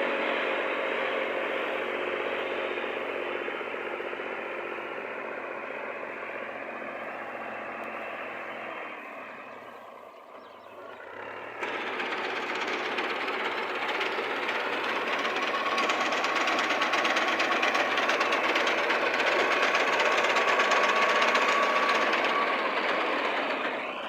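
Tractor diesel engine running under load. It fades away over the first ten seconds, then cuts in suddenly louder and builds up again.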